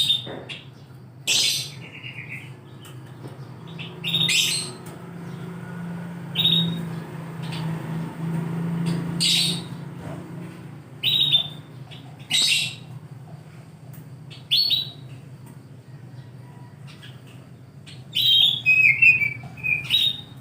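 Oriental magpie-robin singing in short, loud, high-pitched phrases every one to three seconds, with a quicker run of phrases near the end. A steady low hum runs underneath.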